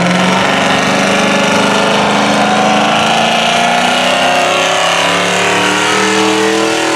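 A truck's engine running loud and steady at a truck pull, its pitch sagging a little and then climbing again near the end.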